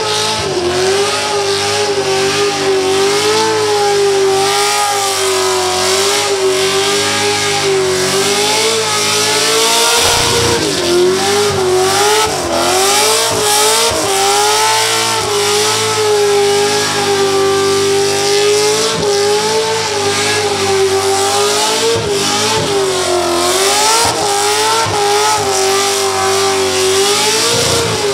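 A VF Commodore's 6.0-litre V8 held at high revs during a burnout. The revs waver up and down the whole time, dropping and climbing sharply about ten seconds in, over the hiss of the spinning rear tyres.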